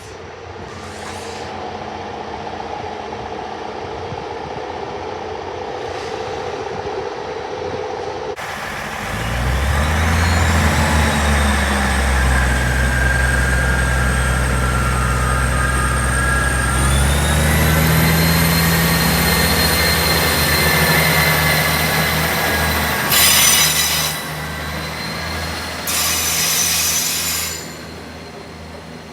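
A train's traction drone and whine, loud from about nine seconds in, with the whine stepping up in pitch partway through as the train picks up speed. Two short loud bursts of noise come near the end.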